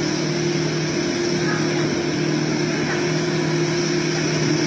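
Pickup truck engine running at steady revs, holding one constant pitch throughout.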